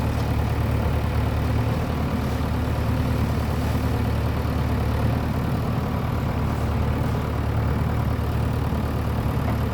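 JCB 3DX backhoe loader's diesel engine running steadily, with an even, unchanging low drone.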